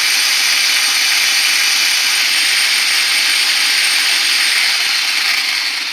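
Redcat Volcano RC truck's electric motor and drivetrain running in reverse, a steady high whirring that eases off slightly near the end.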